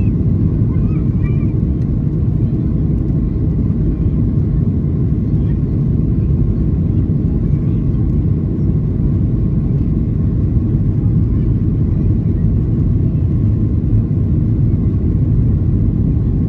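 Boeing 737-800's CFM56 jet engines and airflow heard from inside the cabin during takeoff: a loud, steady, deep rumble.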